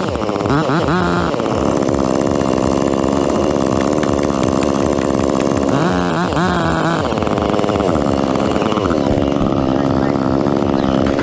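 Chainsaw running under load, its engine pitch rising and falling with the throttle, with sharp revs near the start and again about six seconds in.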